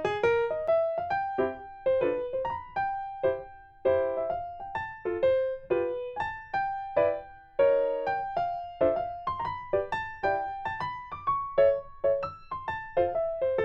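Background music: a light piano melody of short struck notes at an even, unhurried pace.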